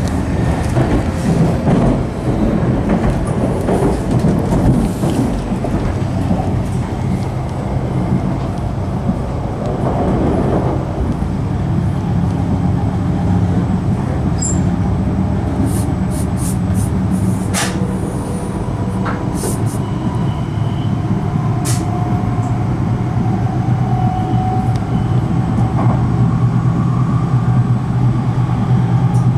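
Running noise of an E5 series Shinkansen heard inside the passenger cabin: a steady rumble of wheels on rail with a low hum. A few sharp clicks come about halfway through, and a faint whine rises slightly in pitch near the end.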